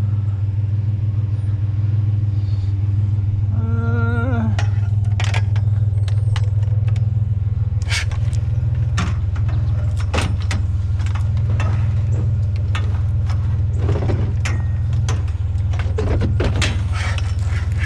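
Truck engine running steadily, with scattered sharp clanks and knocks over it and a brief wavering squeak about 4 seconds in.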